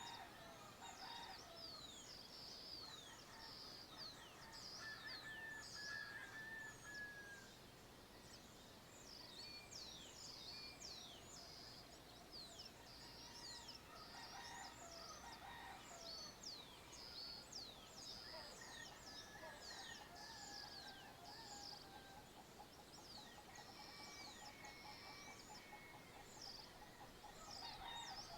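Faint dawn chorus of many small birds chirping continuously, with a rooster crowing in the background near the start, around the middle and again near the end.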